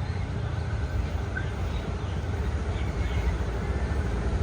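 Diesel-electric locomotive of a passenger train arriving, its engine giving a steady deep rumble.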